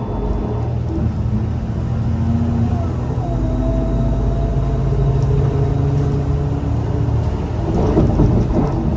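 Scania L94UA city bus running under way with a steady low engine drone. A thin whine rises and then holds about three seconds in. A burst of rattling comes near the end.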